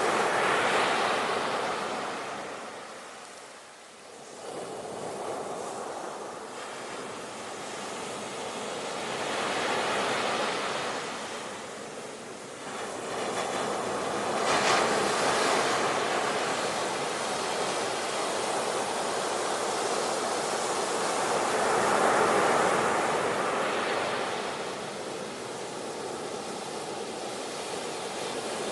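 Ocean surf: waves breaking and washing in, swelling and ebbing every several seconds, with a sharper crash about halfway through.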